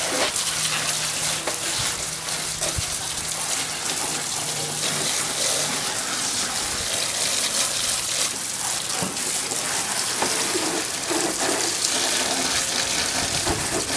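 Water spraying from a hose nozzle onto a car's engine bay, a steady hiss as the degreaser is rinsed off.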